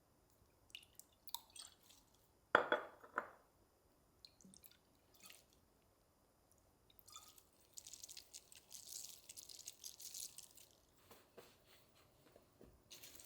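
Kitchen handling sounds: light clicks and clinks of dishes and utensils, the loudest about two and a half seconds in, then a few seconds of high, water-like hissing from about seven seconds, with more small clicks near the end.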